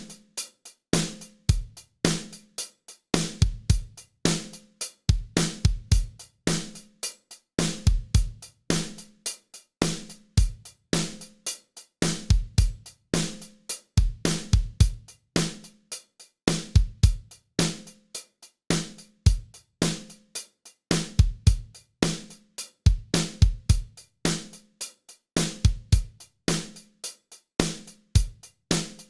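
Drum kit groove with kick, snare, hi-hat and cymbals, played through a Fairchild 670 tube-compressor plugin emulation. The pattern repeats about every two seconds.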